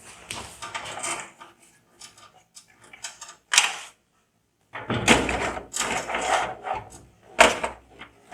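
Irregular clicks, knocks and rustling of computer parts and packaging being handled.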